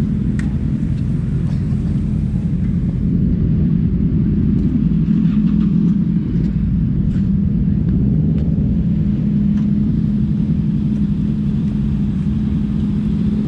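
Motorcycle engine idling, a steady low hum that holds throughout with no revving.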